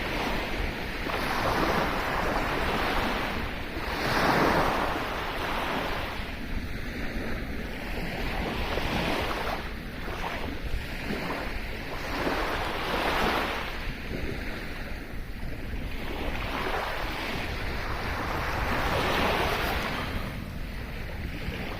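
Sea waves breaking and washing up the shore, in repeated swells every few seconds, with wind on the microphone.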